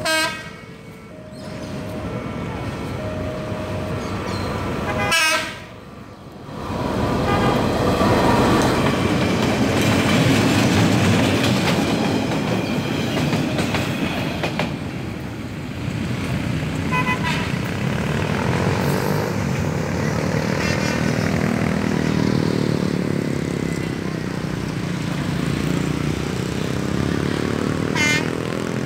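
Diesel locomotive sounding two horn blasts in the first few seconds, then a long stretch of engine and rolling wagon noise as the train passes over the level crossing. A few fainter toots follow, and another short horn blast comes near the end.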